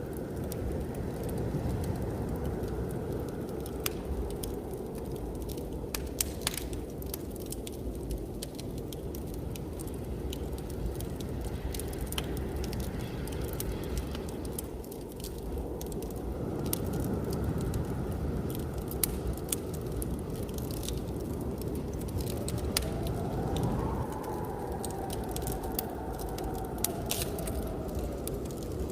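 Wood fire crackling with scattered sharp pops, over the steady low rush of blizzard wind. Late on, the wind rises into a faint whistle that climbs and falls away.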